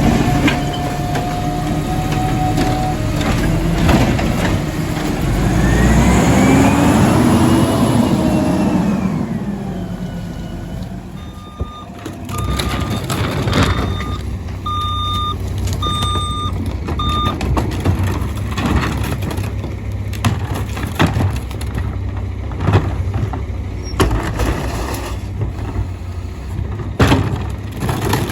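Garbage truck at work: its engine revs up and falls back, then its backup alarm beeps about six times, evenly spaced, with sharp metallic knocks and clanks scattered throughout.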